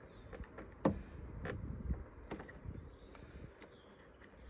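Small clicks and taps of a flat screwdriver pushing back the plastic tangs that hold the outer cover on a Land Rover Freelander 2's door handle. The sharpest click comes about a second in.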